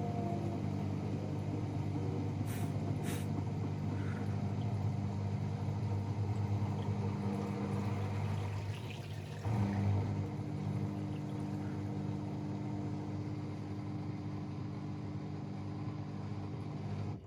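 AEG Protex Plus L87484AFL washing machine running its final spin, a steady low hum from the motor and drum. The hum dips briefly about nine seconds in, surges back, and cuts off near the end.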